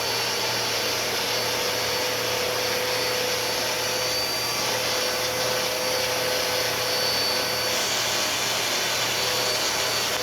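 Bissell PowerLifter Swirl Pet upright vacuum cleaner running steadily with a hose attachment fitted: a constant motor whine over the rush of air.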